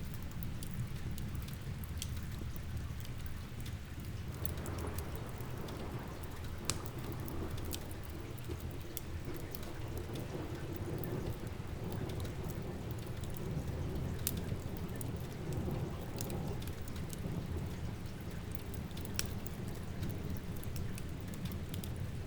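Steady rain with a low rolling rumble of thunder that swells about four seconds in and fades by about seventeen seconds, over a crackling wood fire that gives scattered sharp pops.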